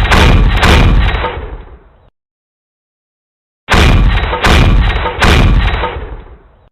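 Sound-effect gunshots, heavy blasts with a long deep tail: a volley fading out, then after about a second and a half of silence three more shots in quick succession, dying away near the end.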